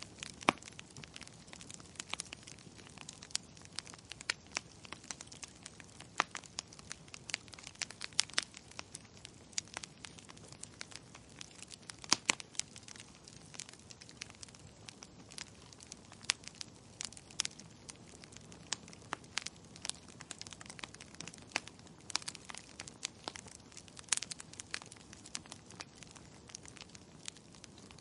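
Burning firewood crackling: irregular sharp pops and snaps, several a second, over a low steady hiss of the fire.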